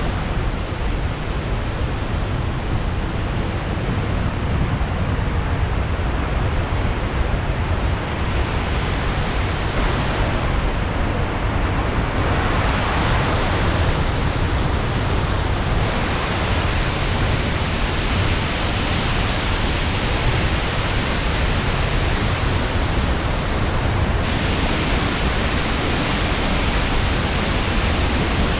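Loud, steady roar of rushing water from a waterfall or river. Its tone shifts slightly a few times.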